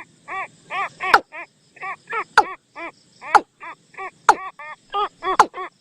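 Looped bird-call lure recording of the bird known in Thai as nok toom: a rapid series of short, arched notes, with a sharper downward-sliding note about once a second.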